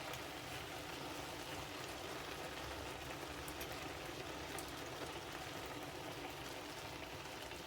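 Chicken and vegetable stir fry sizzling steadily in a pan on the hob, a soft, even, crackling hiss.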